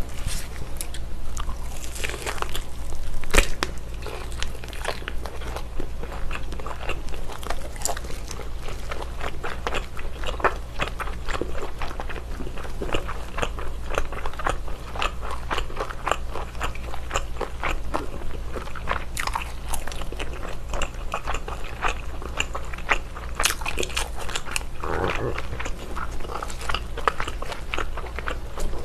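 Close-miked biting and chewing of a whole slab of baked bacon, a steady stream of small clicks and mouth sounds, with one loud sharp snap about three seconds in.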